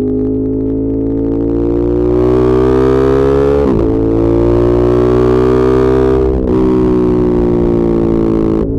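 Ducati Monster 1200S's L-twin engine and exhaust pulling under acceleration, its pitch climbing slowly with brief breaks for upshifts about four and six and a half seconds in.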